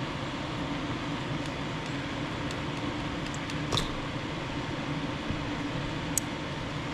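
Steady fan-like hum, with a couple of faint light clicks.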